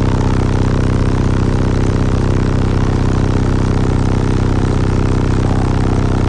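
Truck engine idling steadily: a low, even drone with a fast regular pulse.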